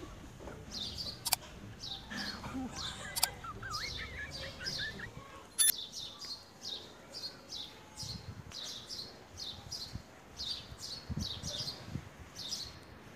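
Small birds chirping steadily, short high chirps falling in pitch about twice a second, with some lower warbling notes in the first few seconds. A few sharp clicks stand out above them.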